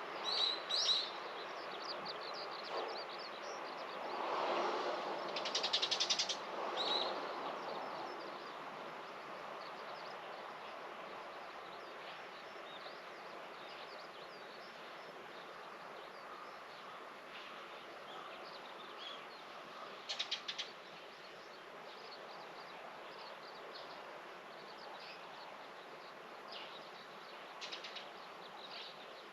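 Small birds chirping in short high calls, with two rapid trills, over a steady background hum of insects buzzing.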